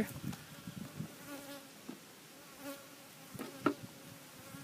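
Honeybees buzzing around an open hive, a faint wavering hum. A single sharp knock sounds about three and a half seconds in.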